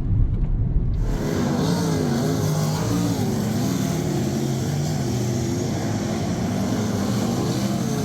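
A vehicle engine with its note rising and falling, over a steady wide hiss. Before that, a low driving rumble cuts off abruptly about a second in.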